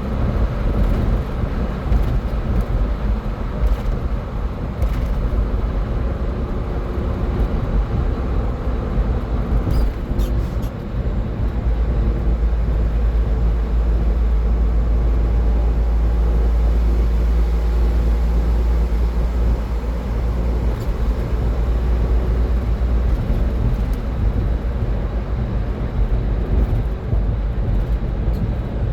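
Car driving at highway speed: steady tyre and road noise with a low engine and wind rumble.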